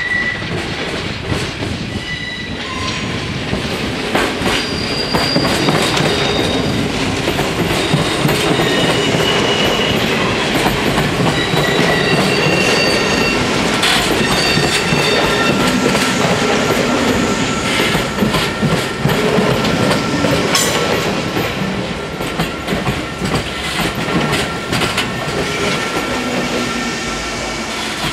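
NS SGMm Sprinter electric train passing slowly over the level crossing. Its wheels clatter over the rail joints and crossing, with a high, steady wheel squeal through the second half.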